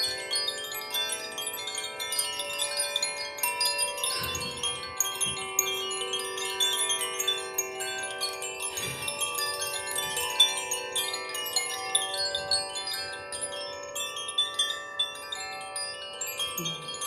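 Wind chimes ringing continuously, many overlapping tones of different pitches sustaining and freshly struck every moment, with a couple of soft low thumps.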